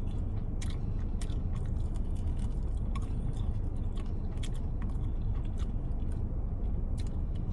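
Close-up chewing of saucy chicken wings, with scattered wet mouth clicks and smacks, over a steady low hum from the car's running air conditioning.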